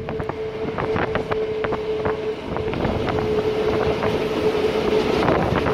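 Metre-gauge electric train of the Little Yellow Train running along the track, heard from an open carriage: a steady whine over a rattling, clicking rumble of wheels on rail, with wind buffeting the phone microphone.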